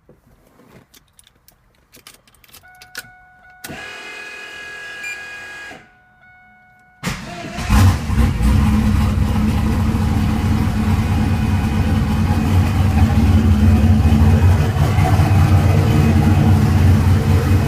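Twin-turbo forged 347 small-block V8 running on E85 being started: a few faint clicks and a steady electric whir for a couple of seconds, then about seven seconds in the engine fires suddenly and settles into a loud idle.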